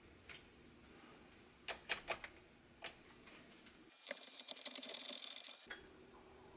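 Scattered clicks and taps from handling the plastic parts of a sea scooter being taken apart, then about a second and a half of fast, even clicking near the middle, the loudest sound.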